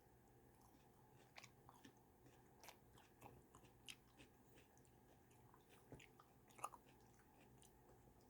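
Near silence with faint scattered clicks and small crackles, the loudest a little over six and a half seconds in.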